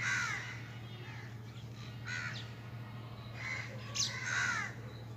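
A crow cawing about four times, each caw a short harsh falling call, over a steady low hum.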